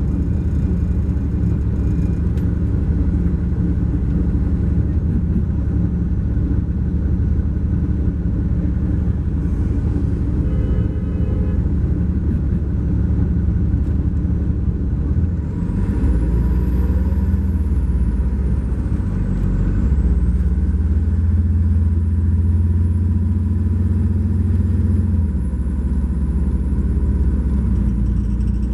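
2012 MCI J4500 coach's Cummins ISX12 diesel heard while riding aboard, a steady low drone under way. About halfway through the engine note changes and a high whistle rises, dips briefly and rises again, holding to the end.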